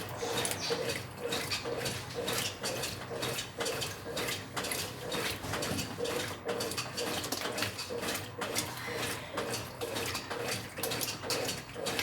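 Brastemp 9 kg top-loading washing machine agitating a full tub of water and laundry: a rhythmic sloshing and churning, about two strokes a second, during the wash cycle.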